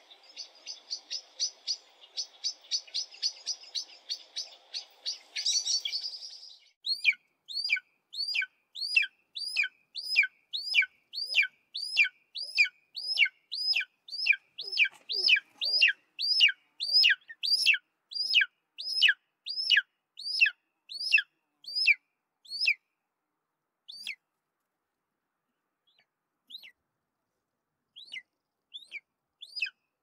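Common blackbird calling in a fast run of short notes, about six a second, for the first six seconds. Then a golden eagle calling: a long series of thin yelping notes, each dropping sharply in pitch, about two a second, thinning to scattered single calls near the end.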